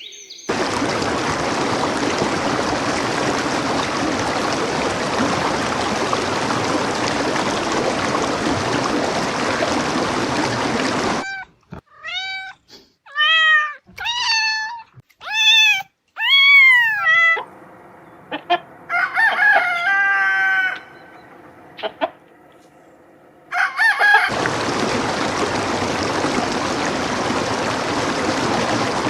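A steady rushing noise like running water, cut off after about ten seconds. In its place come about six short bird calls, each rising then falling in pitch, roughly a second apart. A fast rattling run of calls follows, then the rushing noise returns for the last few seconds.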